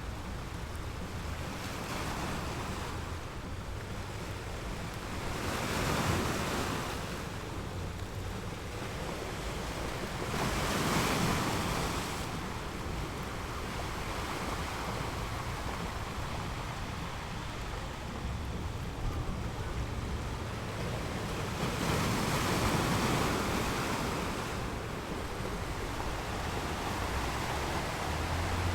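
North Sea surf on a sandy beach: waves wash in and break, swelling louder three times, about six seconds in, around eleven seconds and again near twenty-three seconds. A steady low wind rumble runs underneath.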